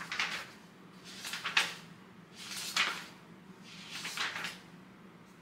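Trading cards being handled and slid over one another: four brief rustling swipes about a second apart.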